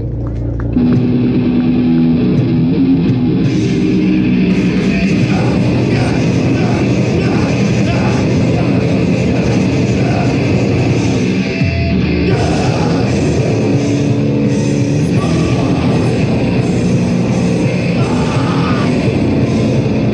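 Heavy metal band playing live at full volume. The whole band comes in about a second in.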